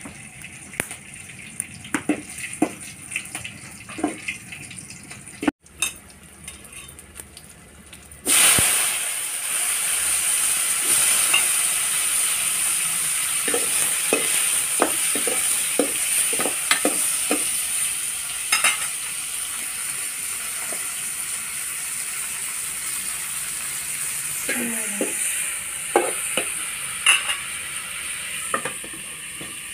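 Tomatoes frying in hot oil in an aluminium kadai: a loud sizzle starts suddenly about eight seconds in and carries on steadily. A metal spoon clinks and scrapes against the pan as they are stirred, and a few light utensil clinks come before the sizzle.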